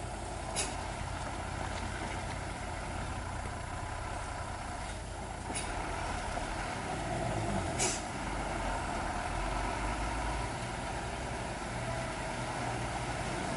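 Heavy tronton truck engine running steadily. Three short hisses of air cut in, one near the start, two about five and eight seconds in, and the rumble gets a little louder about halfway through.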